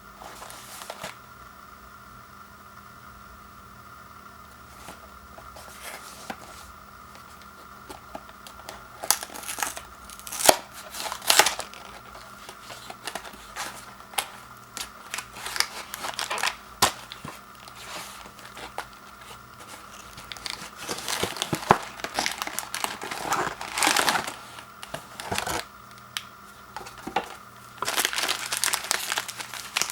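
Packaging handled by hand: a cardboard snack box torn open and crinkly wrappers rustled, in irregular bursts of crackling and tearing with pauses between.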